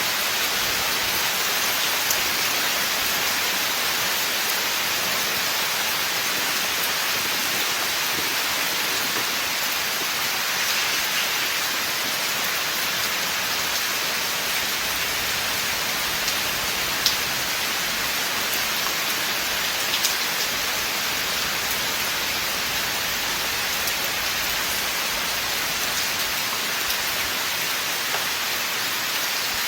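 Steady rain in a forest: an even hiss of many falling drops, with a few sharper single drop hits around the middle.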